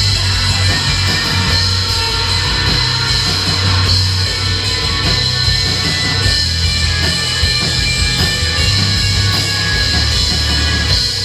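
Live band playing loud, dense heavy rock or metal with distorted guitars and drums.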